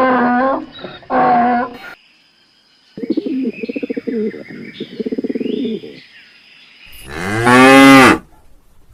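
A cow moos once, long and loud, about seven seconds in. It is the loudest sound here. Before it come short repeated calls from another animal in the first two seconds, then a pulsing call with bird chirps above it.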